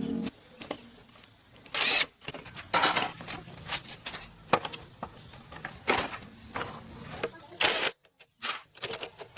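The bulldozer's running engine stops just after the start. Then come scattered metallic clinks and scrapes with a few short hissing bursts: hand work on the machine.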